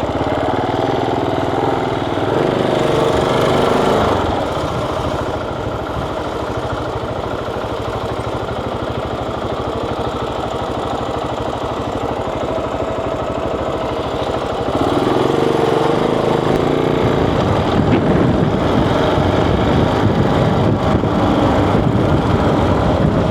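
Motorcycle engine running on the move, with a louder stretch a couple of seconds in and a longer louder stretch from about fifteen seconds in.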